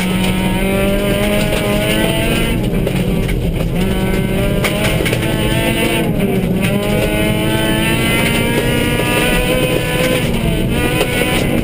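Suzuki Swift rally car's engine heard from inside the cabin, driven hard on a gravel stage: the revs climb repeatedly, broken by several short drops in pitch at the gear changes, over steady road and gravel noise.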